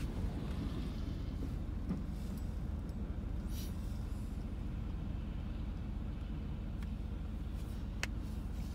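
Low, steady hum of a car idling, heard from inside the cabin while the car sits stopped, with a few faint ticks.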